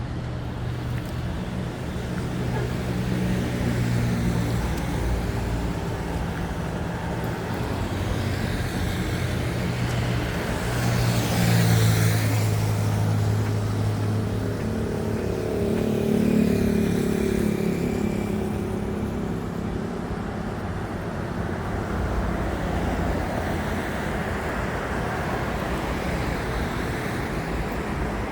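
Excavator's diesel engine running under load, its pitch and loudness rising and falling as it works, louder about eleven and sixteen seconds in. There is a brief rushing noise about eleven seconds in.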